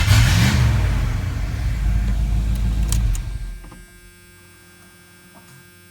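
1990 Dodge Ram D150's 5.2-litre V8 running, with a short rise and fall in engine speed near the start, then shut off about three and a half seconds in, leaving only a faint hum. Two sharp clicks come just before it stops.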